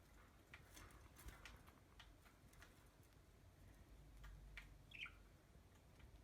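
Faint, scattered clicks of budgerigars husking millet seeds with their beaks, with one brief chirp about five seconds in.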